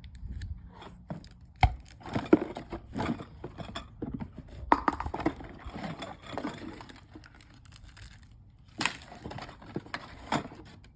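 Rummaging in a cardboard box of science-kit items: plastic pieces and packaging taken out and set or tossed down, with irregular knocks, clatter and rustling. The sharpest knocks come about two seconds in, near five seconds and near nine seconds.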